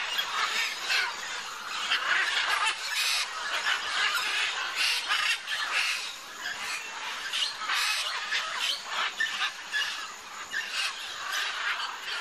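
A large flock of wild macaws squawking and screeching together, many harsh calls overlapping without a break.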